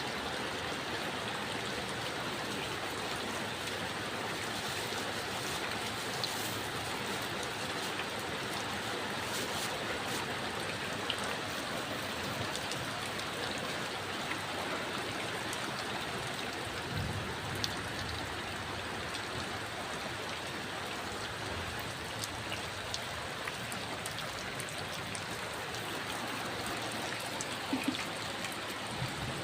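Steady heavy rain falling, with scattered drops ticking close by.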